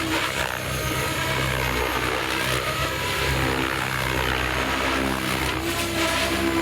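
Engine of a radio-controlled model aircraft running steadily in flight, with small shifts in pitch.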